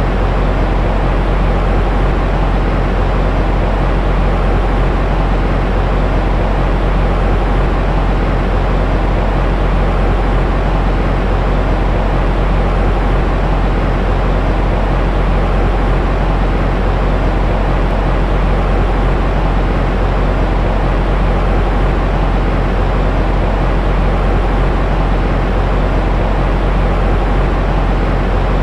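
Continuous baby-sleep white-noise track: a steady, deep rushing noise that does not change, heaviest in the low end.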